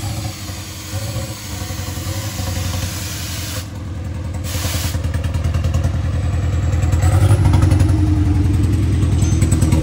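Modified Isuzu D-Max turbo diesel truck's engine running with a rapid, even pulsing note, growing louder in the second half.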